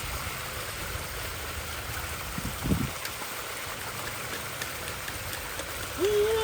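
Steady rushing of running water, like a small stream or waterfall. There is a short low thud midway, and near the end a voice-like call rises and falls in pitch, twice.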